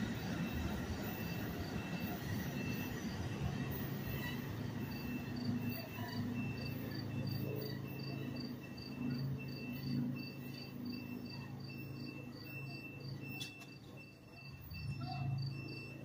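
NJ Transit multilevel push-pull train pulling away along the far track, a low steady rumble and hum, while crickets chirp in a regular pulse of about two to three chirps a second.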